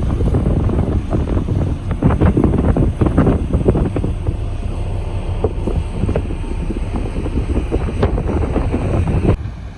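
Heavy diesel machinery running with a steady low rumble, with wind buffeting the microphone. The sound drops off suddenly just before the end.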